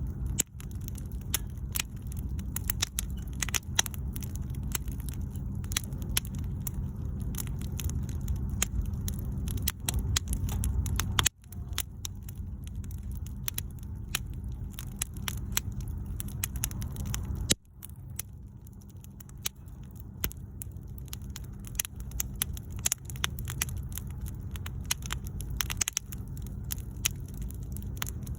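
Wood bonfire burning, with irregular crackles and pops over a low steady rumble; the sound briefly drops out twice.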